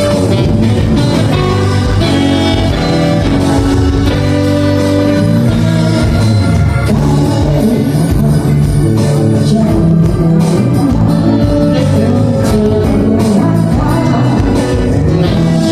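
Band playing live: a song with guitar, bass and drums, with some singing.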